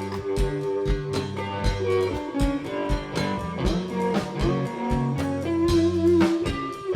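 Blues-rock band playing an instrumental passage: guitar over bass and drums keeping a steady beat.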